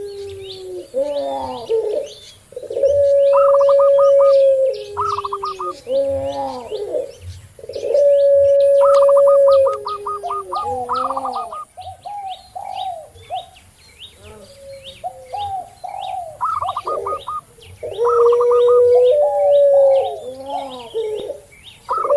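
Doves cooing together: a puter pelung (ring-necked dove) gives about three long, steady coos of about two seconds each, each dropping in pitch at the end, between shorter warbling coos and quick runs of notes from a perkutut (zebra dove) and a tekukur (spotted dove). Fast high chirping of small birds runs underneath.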